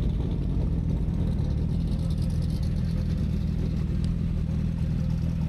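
A loud vehicle engine idling steadily at an even speed, loud enough to drown out a voice nearby.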